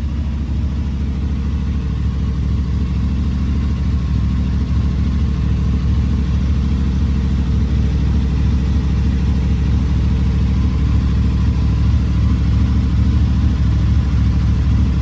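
CFMOTO NK motorcycle's parallel-twin engine idling steadily.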